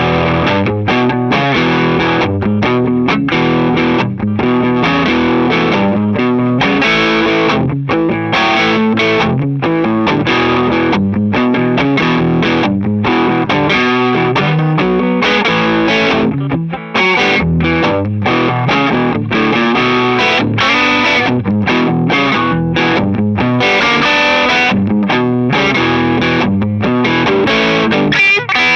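Gibson ES-335 semi-hollow electric guitar with Burstbucker humbuckers, played through a lightly overdriven amp. It plays a blues, mixing chords and single-note lines without a break.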